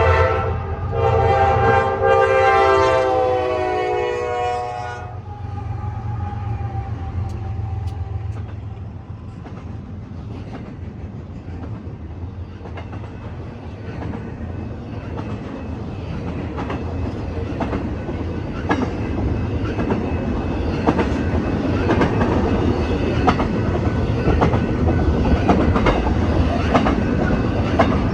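Norfolk Southern diesel locomotive's Nathan K5LA five-chime horn sounding a chord for about five seconds, its pitch dropping near the end as it passes. Then the train rumbles by, and the wheels of the intermodal cars click over the rail joints, growing louder toward the end.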